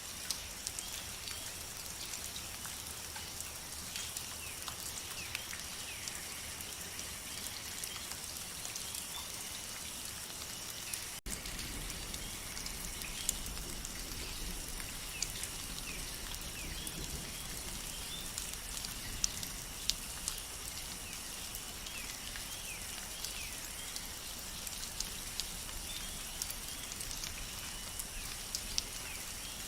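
Steady rainfall in a forest, a continuous hiss with many individual drops pattering, joined by faint short chirps. About eleven seconds in the sound drops out for an instant, and after that a low rumble is stronger.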